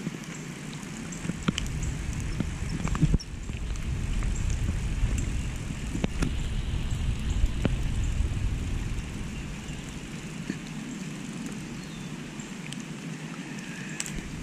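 Steady rain falling on a river, with scattered sharp taps of drops and a low rumble on the microphone that swells about three seconds in and eases off past the middle.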